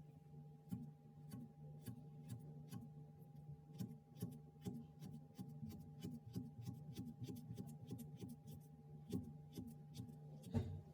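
A quick, uneven series of light clicks or taps, a few a second, over a steady low hum.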